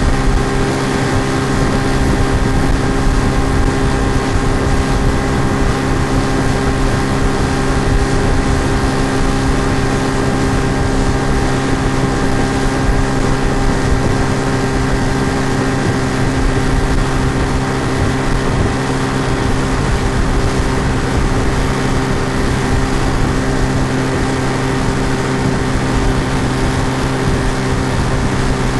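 Outboard motor running steadily with an unchanging pitch and level: a looped sound-effect recording dubbed over the ride, not the canoe's own motor.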